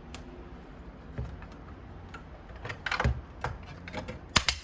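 Irregular clicks and knocks of tools and metal and plastic parts being handled inside an opened iMac during disassembly. There are a few scattered ticks at first, then busier clicking, with the loudest pair of knocks near the end.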